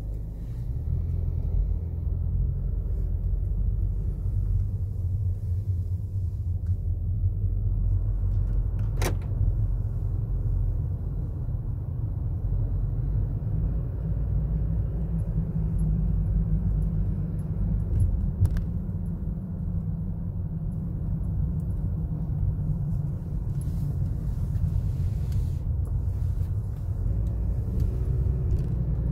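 Low, steady rumble of a Toyota Corolla driving, heard from inside the cabin: engine and road noise. Two single sharp clicks come about nine and eighteen seconds in.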